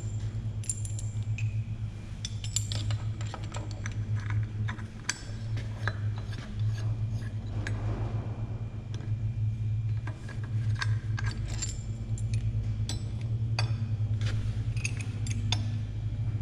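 Small metal parts and tools clinking, jangling and scraping as bolts are sorted and handled, many irregular light clicks throughout, over a steady low hum.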